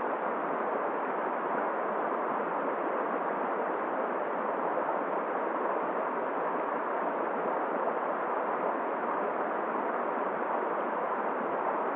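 Steady rushing of a flowing river, one constant even noise without gusts or breaks.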